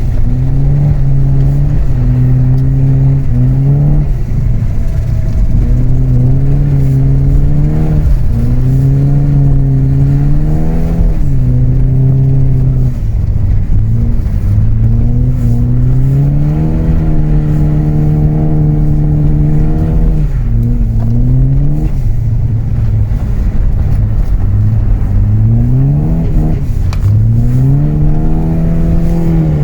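Saab B204 2.0-litre four-cylinder engine in an Opel Omega, revving up and down as the car is driven, its pitch climbing and falling again and again with the throttle; several quick rising revs follow one another near the end.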